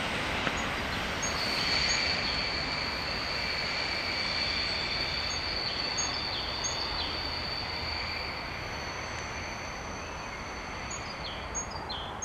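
ED2T electric multiple unit running away along a curved track: a steady rumble of wheels on rails, slowly fading, with a steady high-pitched wheel squeal held over it for most of the time.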